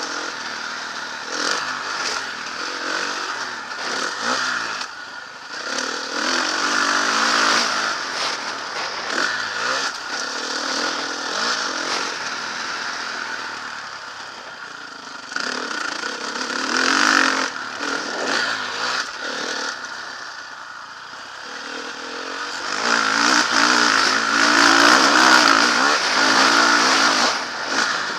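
Motocross bike engine revving up and easing off again and again as it is ridden round the track, loudest near the end.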